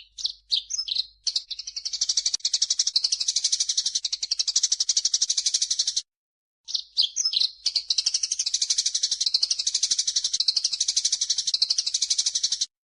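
Recorded songbird calls from a cucak jenggot (grey-cheeked bulbul) and Eurasian tree sparrow masteran track: a few quick high chirps, then a long, very fast rattling trill lasting several seconds. The pattern comes twice, each trill cutting off abruptly into silence, as in an edited loop.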